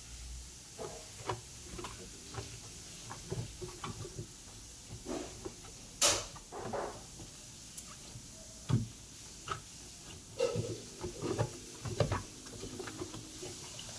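Irregular knocks, clicks and clatter of parts of a twin-tub washing machine being handled during cleaning, with one sharp, loud knock about six seconds in.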